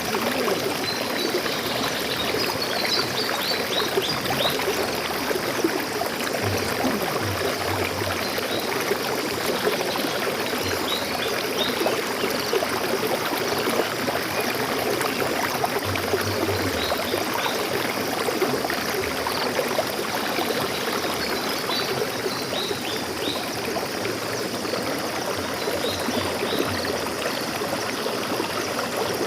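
Stream of water flowing steadily in an even rushing wash, with short, faint high bird chirps now and then: a few seconds in, near the middle, and again later on.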